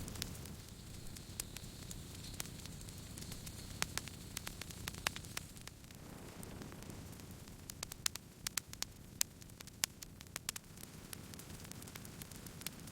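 Wood campfire crackling: a steady low rush of burning with scattered sharp pops. The pops come thick and fast about eight seconds in.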